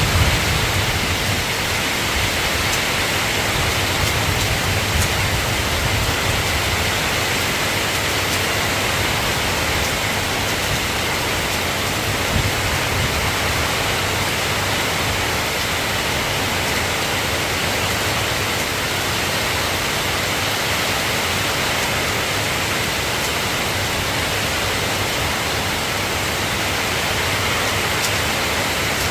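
Steady, even rainfall. A low rumble of thunder fades out in the first second or so.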